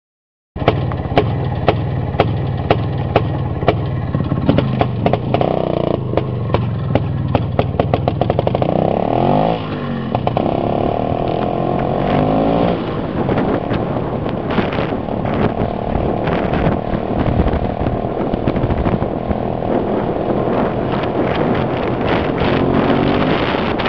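IZH two-stroke motorcycle engine running, with regular sharp knocks about twice a second at first and the engine pitch rising and falling around ten seconds in.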